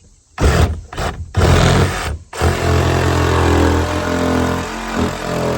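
Power saw cutting the opening for a chicken coop door: started in several short bursts, then running steadily.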